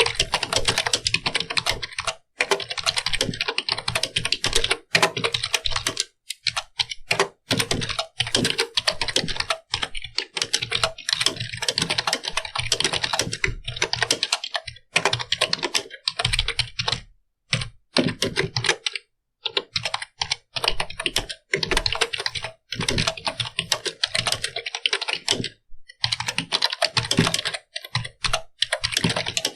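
Computer keyboard being typed on fast, a steady clatter of key clicks in long runs with brief pauses, the longest about two-thirds of the way through.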